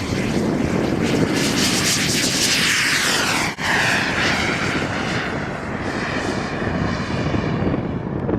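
Jet turbine of a radio-controlled model jet flying past, its whine and roar sweeping down in pitch as it passes, with a brief dropout about three and a half seconds in.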